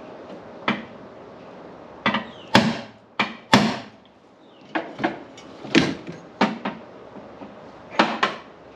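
A series of sharp knocks and clunks, about a dozen in irregular clusters, as parts and tools are handled.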